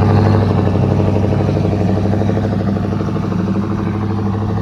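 Truck engine running at a steady speed, one even, deep note that slowly fades.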